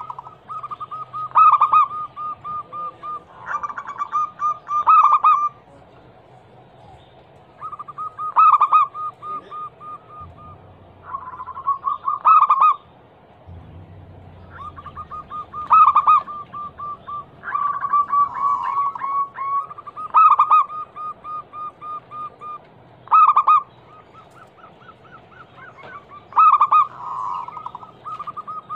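Zebra dove (perkutut) cooing: runs of rapid, short coos near 1 kHz, broken every few seconds by a few louder notes, repeated phrase after phrase.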